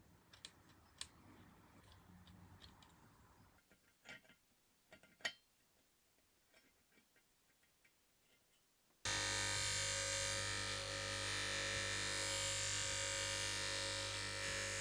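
Scattered light clicks and taps, then about nine seconds in a loud, steady machine hum with hiss starts abruptly and runs on unchanged.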